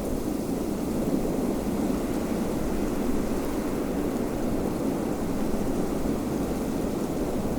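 Steady low rushing wind, even in level with no distinct gusts or breaks.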